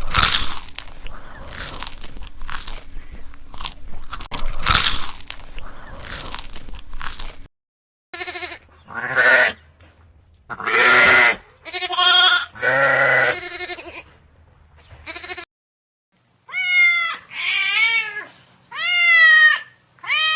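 Several seconds of crunching and crackling, then a few loud bleats from goats or sheep, then a cat meowing three times, each meow rising and falling in pitch.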